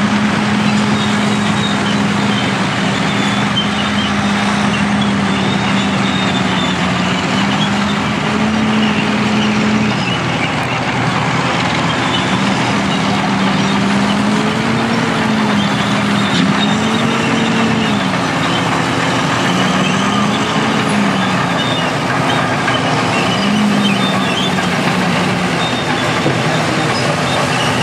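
Vintage crawler bulldozers running with a dense mechanical clatter. One engine's note rises and falls again and again from about a third of the way in, as it is throttled up and down under load.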